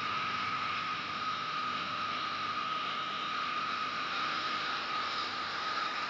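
Steady rushing noise of storm water, as of a flash flood or heavy rain, even and unbroken, with a thin steady high tone running over it.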